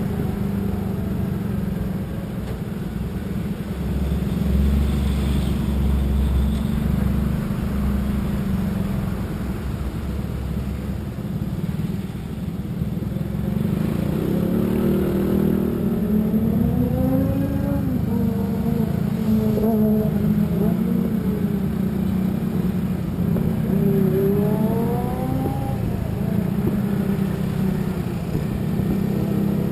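Vehicle engine and road noise with a steady low rumble while driving. Engine notes rise and fall in pitch several times in the second half.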